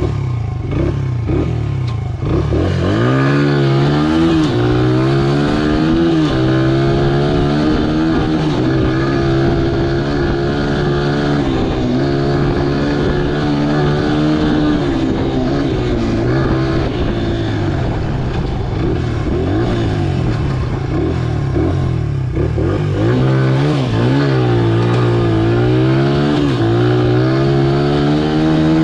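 Honda XR100R's small single-cylinder four-stroke engine under way on a trail. It revs up about two seconds in, then holds fairly steady revs with small rises and falls as the throttle is worked, and dips and climbs again near the end.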